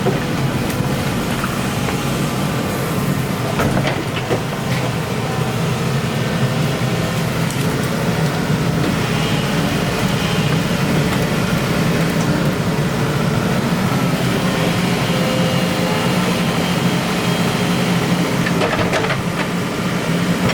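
Excavator's diesel engine running steadily, with a few sharp knocks from the machine's work.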